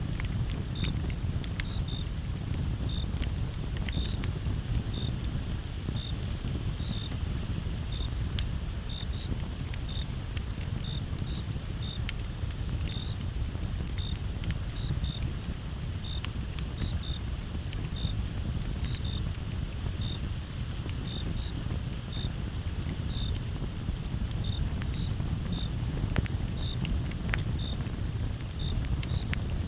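Campfire crackling, with scattered sharp pops over a low steady rush. Behind it crickets chirp about once a second over a constant high insect trill.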